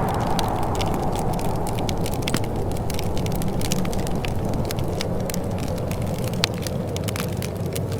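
Wood fire crackling in a fireplace: a steady stream of small irregular pops and snaps over a low, even rumble, with one sharper pop late on. A rushing, wind-like noise fades away over the first second or two.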